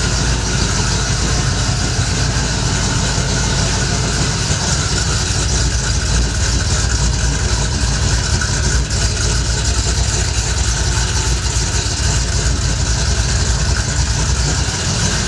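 Car engine idling steadily with a loud, deep rumble, running shortly after being started.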